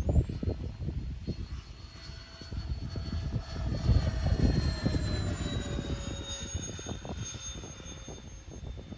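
Twin 70 mm electric ducted fans of an RC A-10 jet whining in flight, the pitch rising just as it starts and then slowly dropping as the sound fades toward the end. Gusty wind buffets the microphone throughout.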